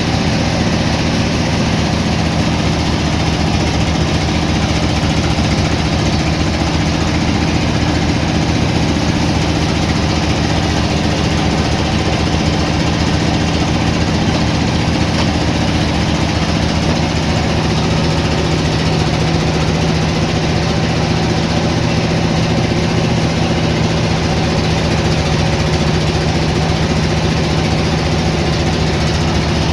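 Engine of the sawmill machinery running steadily at a constant speed, a loud, even drone that does not change.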